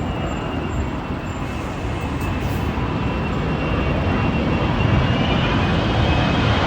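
Airbus A380-800's jet engines rumbling, growing steadily louder as the airliner approaches, with a thin high whine above the roar.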